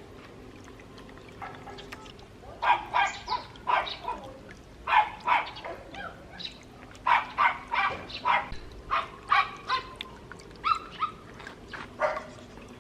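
A dog barking in short, high yaps, starting about two and a half seconds in and repeating in quick clusters of two or three.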